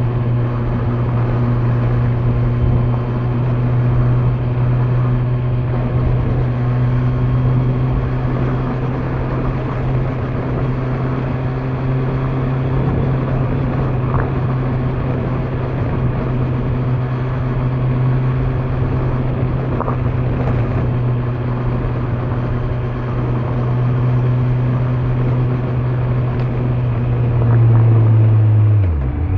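Kawasaki Z900's inline-four engine running at steady cruising revs through its stock exhaust, over a haze of wind and road noise. Near the end it gets louder as it pulls harder, then the revs dip sharply and pick up again, a gear change.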